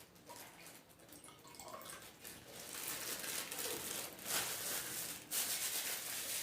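Faint running or pouring water, a soft hiss that grows louder about two and a half seconds in.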